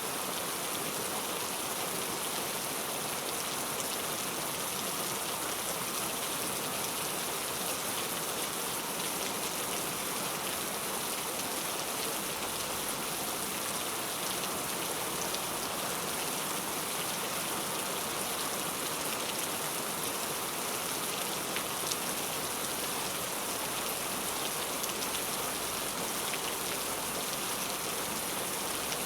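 Heavy rain falling steadily, an even hiss with the faint ticks of single drops.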